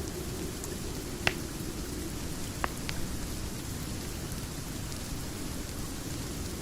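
Steady rain sound mixed with a crackling fireplace: an even hiss of rain with a few sharp pops from the fire, the loudest about a second in and two more just under three seconds in.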